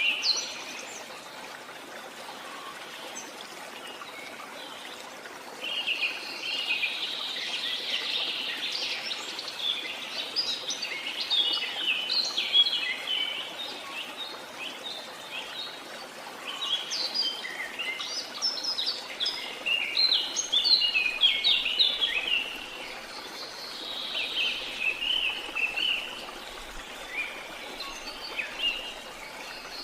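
Birds chirping and singing in quick bouts over a steady rush of running water.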